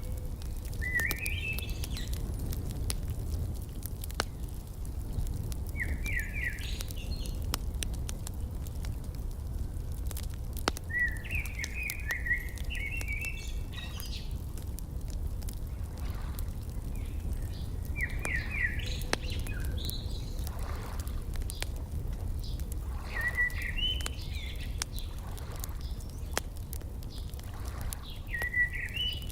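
A songbird repeating a short phrase of quick chirps about every five seconds, over scattered crackling pops from a wood fire and a steady low rumble.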